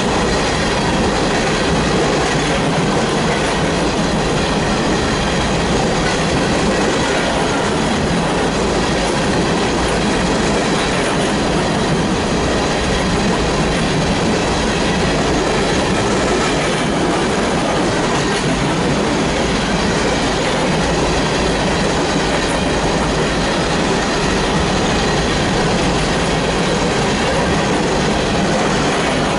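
Coal train's gondola cars rolling past close by: a steady, loud rumble of steel wheels on the rails.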